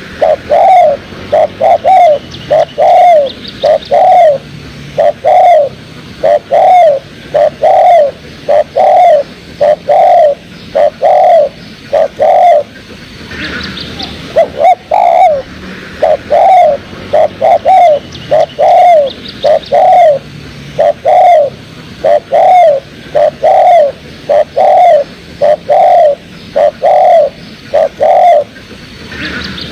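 Spotted dove (tekukur) cooing over and over in a loud, even run of arched coos, about three every two seconds, with a short break about halfway through.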